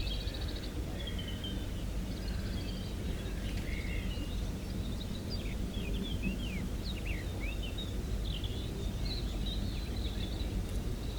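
Small birds chirping and twittering, with many short, quick downward-sliding notes, and a fast high trill at the start and again at the end, over a steady low outdoor rumble.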